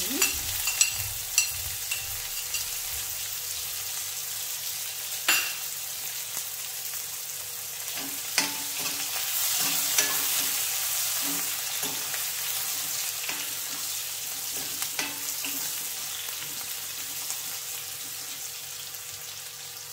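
Sliced onion, chilli and ground garlic sizzling in hot oil in an aluminium kadai, being sautéed and stirred with a metal spoon. The spoon clicks and scrapes against the pan now and then.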